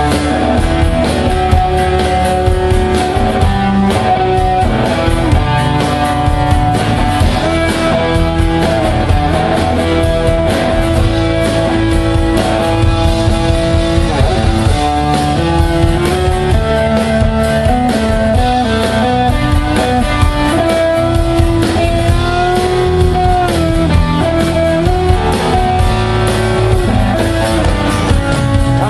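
Live rock band playing an instrumental break: an electric guitar lead with long held notes that bend in pitch, over drums and bass.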